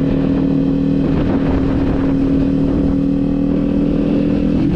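Kawasaki Z400's parallel-twin engine running at a steady cruising pitch while riding, heard through heavy wind buffeting on the on-bike camera's microphone.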